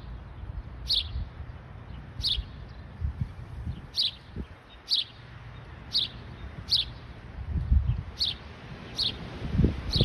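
A small bird repeating a short, high chirp about once a second, a call the uploader thinks may be a house sparrow's. Wind rumbles on the microphone underneath, gusting up near the end.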